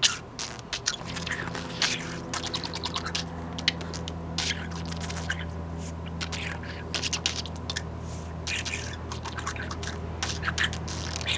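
Budgerigar making a rapid, irregular run of beak clicks and short chattering clicks, the kind of vocal percussion owners call budgie beatboxing. A steady low hum joins in about a second in.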